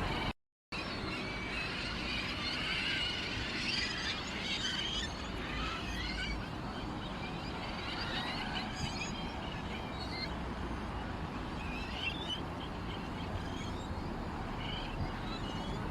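Birdsong: many small birds chirping and twittering at once, over a steady low rumble. The sound cuts out completely for a moment just after the start.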